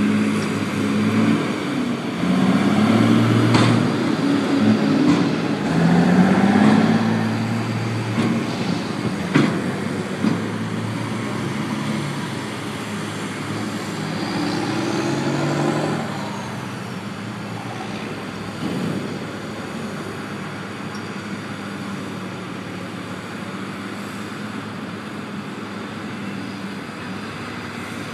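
A motor vehicle engine running, its pitch shifting up and down over the first several seconds with a few knocks, then settling to a steadier, quieter run.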